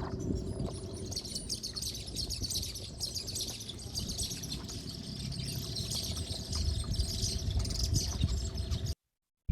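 Many small birds chirping and twittering together in a dense, continuous chorus, over a faint low rumble and a faint steady hum. The sound cuts out abruptly just before the end.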